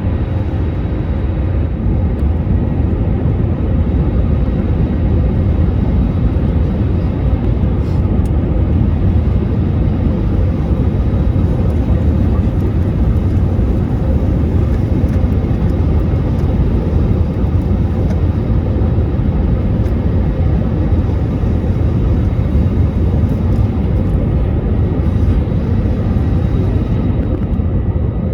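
Steady low rumble of a Boeing 737-800 jet airliner's engines and airflow, holding an even level throughout.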